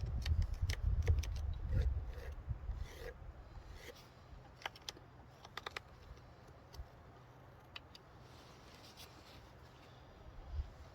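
Light handling noises from woodworking on a wooden piece: scattered small clicks, taps and scrapes, over a low rumble that fades after the first few seconds.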